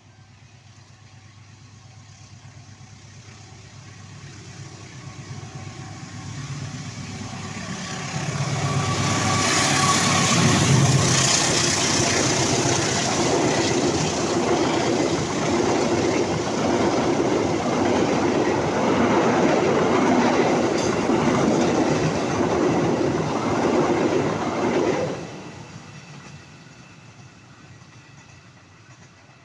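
A train approaching and passing close by. It builds for about ten seconds with a deep engine sound as it arrives, then a long run of wheels rattling over the rails. The noise cuts off sharply a few seconds before the end as the last car goes by, leaving a fading rumble.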